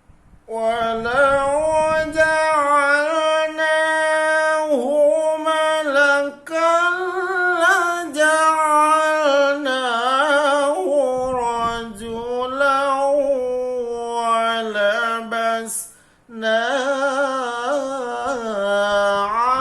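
Quran recitation in the melodic tilawah style by a single unaccompanied voice. The notes are long and drawn out, with ornamented turns. There are brief breath pauses about six seconds in and again near sixteen seconds.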